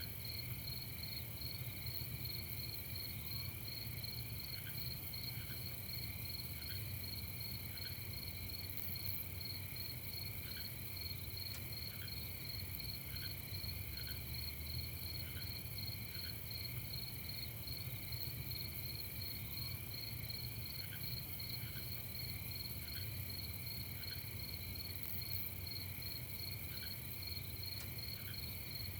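A night chorus of crickets chirping steadily in a fast, even pulse, with a fainter lower call repeating about once a second and a soft low rumble underneath.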